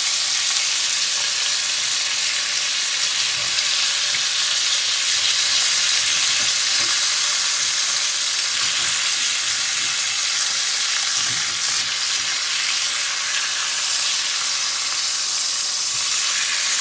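Marinated chicken thighs sizzling in a hot pan: a steady frying hiss.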